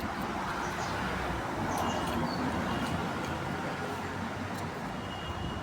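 Refrigerator compressor running on test: a steady low hum under a wash of background noise.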